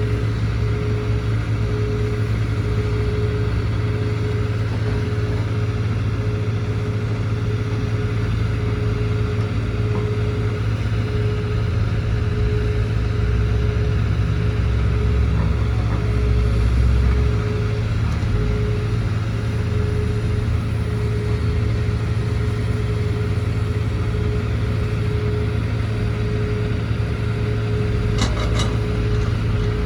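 Caterpillar C4.4 four-cylinder diesel engine of a CAT 320GC excavator running steadily, a low drone with a higher tone pulsing on and off about once a second. A few light clicks near the end.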